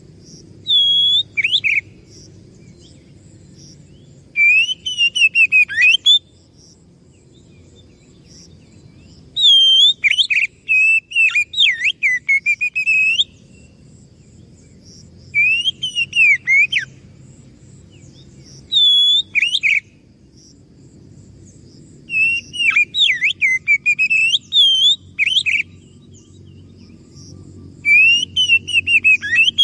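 Oriental magpie-robin (kacer) singing loud, clear whistled phrases mixed with quick chirps. The phrases come in bursts of one to four seconds, about seven of them, separated by pauses of a few seconds, over a faint low background hum.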